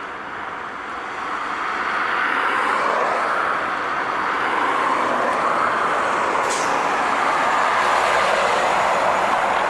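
Heavy trucks going by on a highway: a steady rush of tyre and engine noise that swells about a second or two in and stays up, with a brief high hiss about six and a half seconds in.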